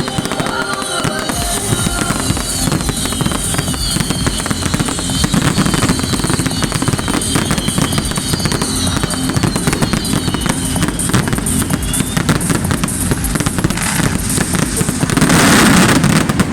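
Fireworks finale barrage: a dense, rapid stream of bangs and crackle, with many whistling shells during the first part, building to the loudest burst near the end.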